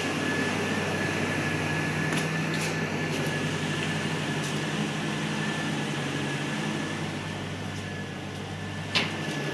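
Jeep engine idling steadily on its own just after a hard cold start, having sat three months with a dead battery. A thin steady high whine rides over the low hum, and a single click comes near the end.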